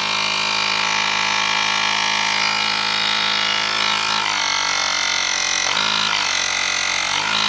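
Portable battery-powered tire inflator's compressor running with a steady, loud mechanical drone, its pitch dipping briefly twice in the second half.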